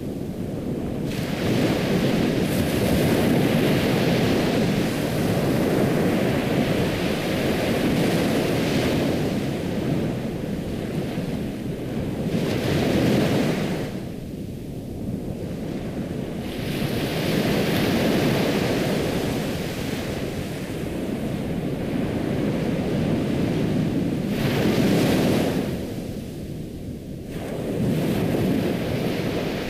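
Ocean waves breaking and washing in, swelling and falling back in long surges every several seconds.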